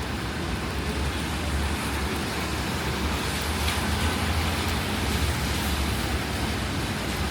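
City street traffic in the rain: a steady low rumble of passing vehicles mixed with an even hiss of rain and wet road.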